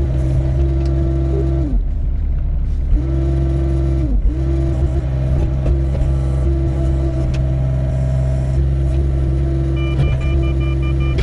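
Doosan 55W wheeled excavator's diesel engine running steadily at working speed, its pitch sagging briefly twice, around two and four seconds in. Near the end a rapid, evenly broken beeping starts over the engine.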